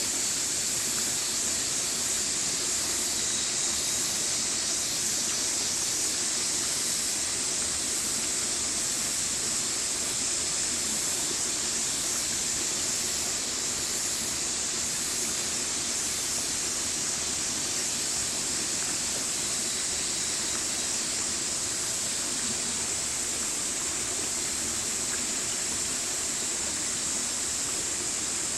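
Mountain stream running steadily over rocks: a constant even rush of water.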